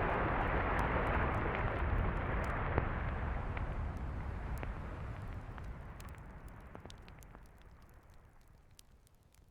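Steady roar of beach surf, fading away over several seconds to near silence, with faint scattered ticks on top.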